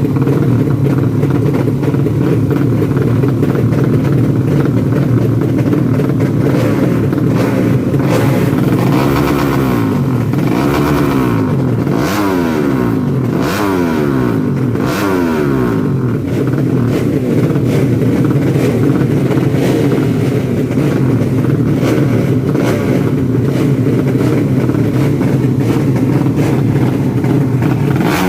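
200cc four-stroke underbone drag-bike engine running loud and steady, with a few quick revs up and down through the middle stretch.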